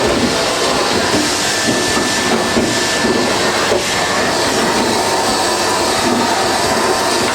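Vacuum cleaner running steadily with an uneven rumbling rattle, sucking fluff out of a tumble dryer.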